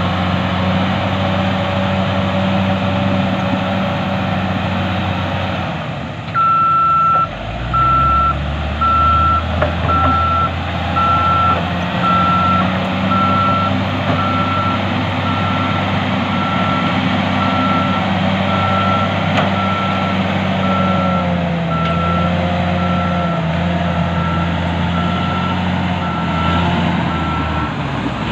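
Heavy diesel earthmoving machine running steadily, with its back-up alarm beeping about once a second from about six seconds in, sounding while the machine travels in reverse.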